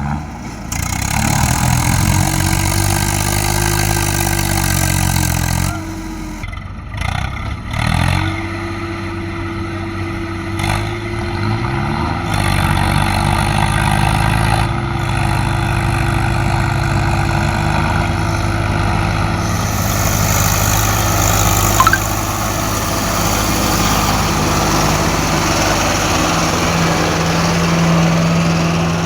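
Swaraj 855 tractor's three-cylinder diesel engine running and being revved. Its pitch rises and falls over the first few seconds, drops away about six seconds in, climbs again around eight seconds, then holds fairly steady.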